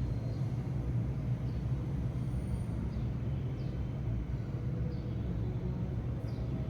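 Steady low rumble, with several faint, short, high sparrow chirps that fall in pitch, about one a second.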